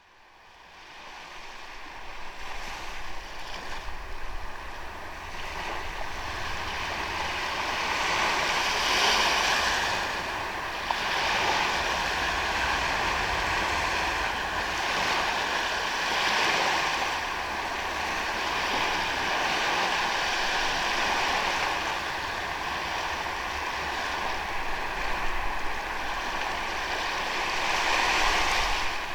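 Ocean waves breaking and washing up on a sandy beach: a steady surf hiss that swells and eases every several seconds, fading in over the first few seconds.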